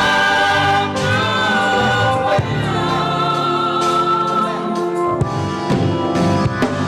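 Gospel choir singing long held notes, with drum hits coming in near the end.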